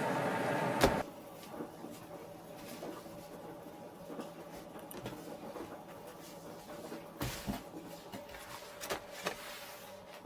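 A steady machine hum cuts off with a sharp click about a second in, like a household appliance being switched off. Then a quiet room with scattered light clicks and knocks, the loudest about seven seconds in.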